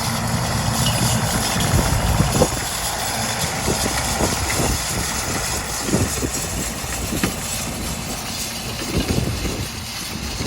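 Diesel tractor engine running steadily, with a few short knocks along the way.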